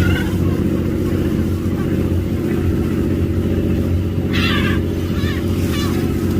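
Steady low drone of a boat's engine, with gulls calling briefly about four seconds in and once more near the end.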